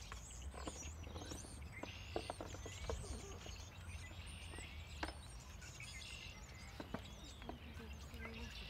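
Small birds chirping and twittering over and over above a low rumble of wind on the microphone, with a few sharp clacks, the strongest about two and five seconds in.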